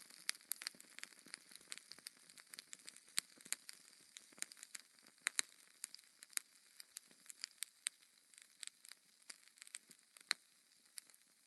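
Wood fire of burning logs crackling, with irregular sharp pops and snaps over a faint hiss.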